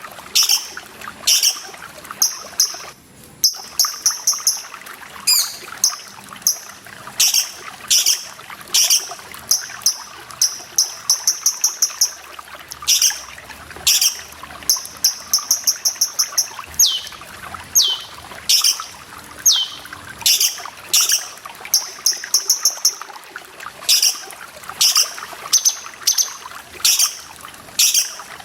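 Cucak cungkok singing: sharp, high call notes and quick stuttering trills, repeated throughout, with four falling whistles in a row about two-thirds of the way through, over steady trickling water.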